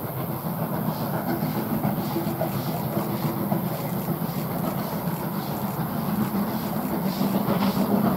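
A train running on the track, with a steady low hum and faint rail clatter, growing louder toward the end as it comes closer.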